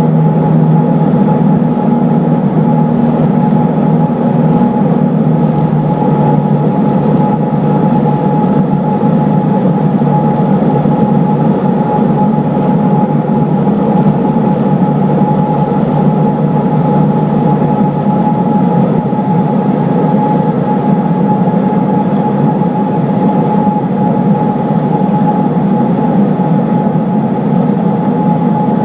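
Cessna 152's Lycoming O-235 four-cylinder engine and propeller running steadily, a loud, even drone.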